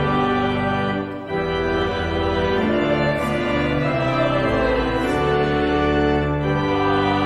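Organ playing a hymn in held chords, with a short break between phrases about a second in.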